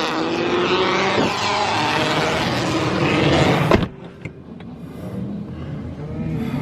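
Car engine running hard under acceleration, its pitch climbing. The sound cuts off abruptly about four seconds in and gives way to a quieter, steady engine drone.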